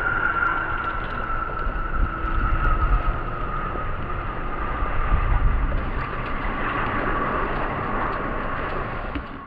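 Panavia Tornado's twin RB199 turbofan jet engines running: a steady roar with a whine whose pitch falls slowly, over a low rumble.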